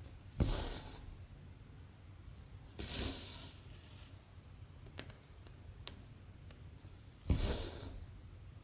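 Cotton embroidery thread drawn through 14-count cross-stitch fabric in three brief rustling pulls, with a couple of faint ticks between them.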